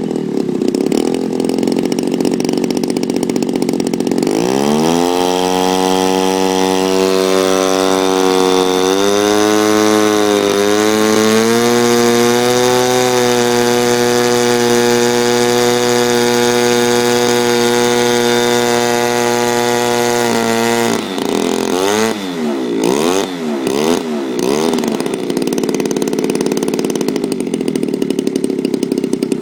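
Zenoah G38 two-stroke petrol engine with built-in magneto ignition, on a quarter-scale RC aeroplane with its propeller turning, idling, then opened up about four seconds in to a steady high-speed run-up. About 21 seconds in it is throttled back with a few quick blips and settles to idle again. It purrs along, running reliably after two years unused.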